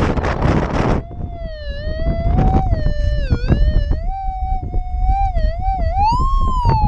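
Minelab GPZ 7000 metal detector's audio tone, a single electronic tone that wavers in pitch and rises highest near the end before dropping back. Wind buffets the microphone for about the first second and rumbles low underneath the tone after that.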